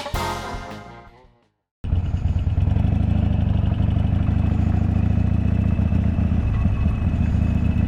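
A music track fades out, and after a short silence a motorcycle engine cuts in, running steadily with no change in pitch.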